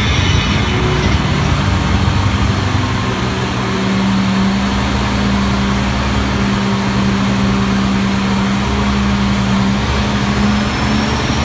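Tour tram running with a steady engine hum and road noise.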